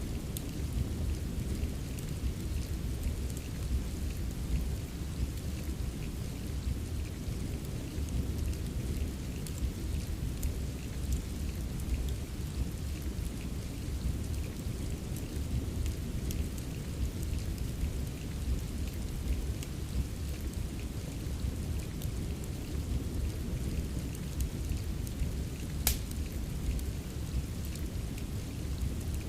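Steady rain with a deep, constant low rumble under it, and a wood fire crackling with scattered small pops; one sharper pop comes near the end.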